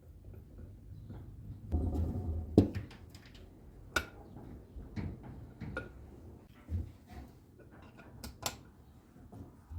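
Metal tools and parts being handled: a rustling, scraping stretch about two seconds in ending in a sharp knock, then scattered clicks and clinks every second or so.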